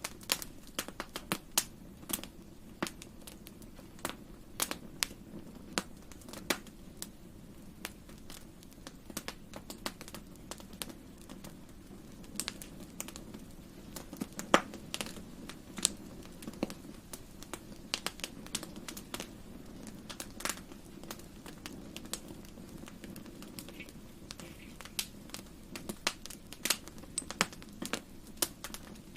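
Fireplace fire crackling: irregular sharp pops, several a second, over a steady low rumble of the flames, with one louder pop about halfway through.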